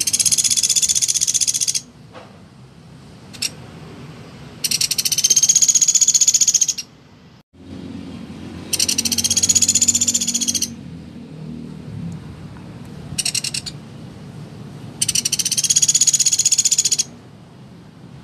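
Pelatuk beras woodpecker calling in long, rapid rattling trills, four bursts of about two seconds each, with a couple of short rattles between them.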